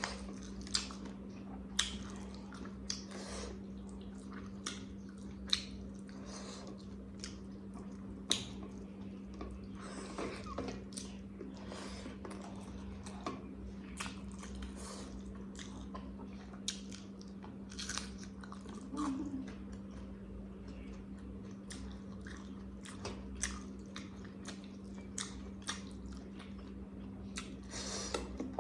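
Close-up eating sounds: a person chewing and biting food, with many sharp crunchy clicks that come thick and fast for the first several seconds and more sparsely after. A steady low hum runs underneath.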